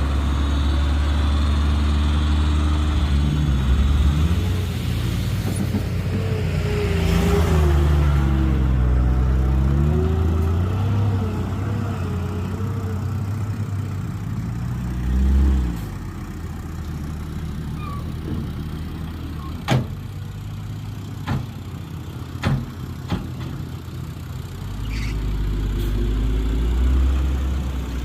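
Heavy diesel engine of earthmoving machinery running, its pitch rising and falling as it revs, then settling lower. A few sharp knocks come about two-thirds of the way in, and the engine picks up again near the end.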